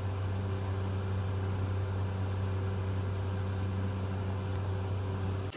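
Camper air conditioner running: a steady low hum with an even hiss over it, cutting off abruptly at the end.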